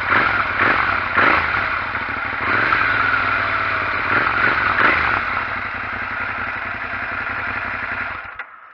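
Loud, steady mechanical running noise with a few irregular louder strokes, cutting off suddenly near the end.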